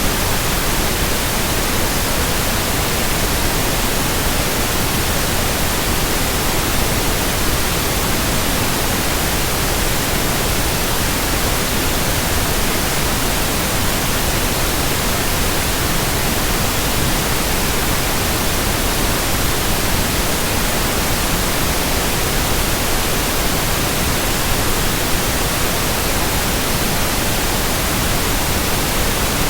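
Steady white noise: an even, unchanging hiss across the whole range of pitch, with no tones, strokes or rhythm.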